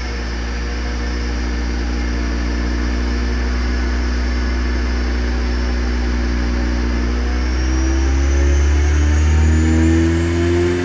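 Car engine and quad-tip exhaust pulling hard under load on a rolling-road dyno, the exhaust note climbing slowly and steadily in pitch as the revs build, with a thin high whine rising alongside it. It grows louder towards the end.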